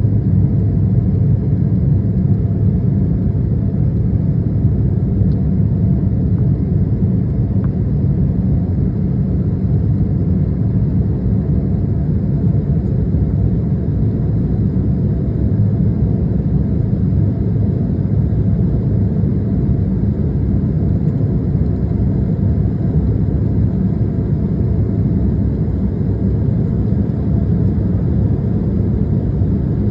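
Steady low rumble of a jet airliner's engines and airflow heard inside the passenger cabin during climb-out.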